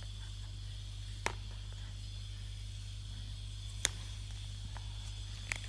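A steady low electrical hum with three brief, sharp clicks: one about a second in, one just before four seconds, and one near the end.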